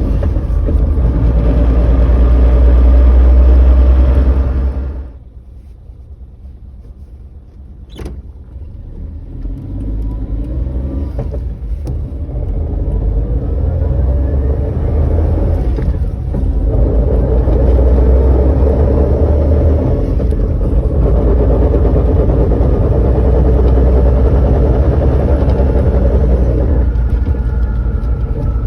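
Drivetrain of a Suzuki Jimny lifted 3.5 inches, making a loud, harsh abnormal noise in four-wheel drive, worst from the front; the owner thinks it is the propeller shaft. The noise drops away about five seconds in, there is a sharp click near eight seconds, and then it builds back up and holds steady.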